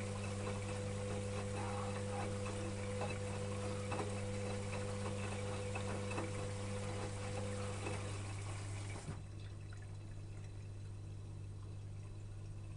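Electrolux EWS 1045 washing machine moving water, a steady rushing with a motor hum, which cuts off suddenly about nine seconds in and leaves only a faint low hum.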